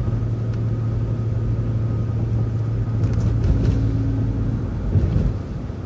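City transit bus running, heard from on board: a steady low engine drone with a few faint clicks and rattles about three seconds in. The drone eases off a little about five seconds in.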